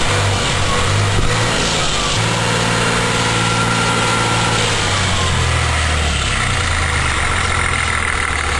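Car engine running, heard from inside the car, a steady low hum under a constant hiss.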